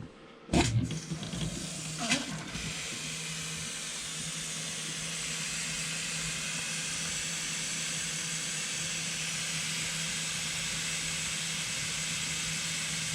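Trailer faucet open on the cold side, water running steadily into the sink as the RV antifreeze is flushed out of the lines; the flow is weak on the city-water pressure. Two brief sharp sounds come near the start as the flow begins, then a steady rush with a low hum.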